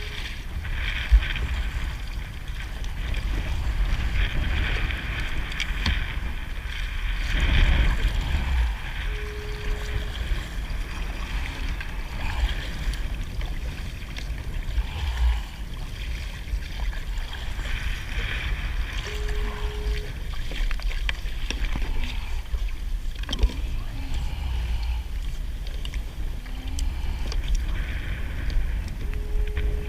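Wind buffeting the microphone over water noise around a kayak, with a sharp knock about a second in. A short electronic beep sounds three times, about ten seconds apart.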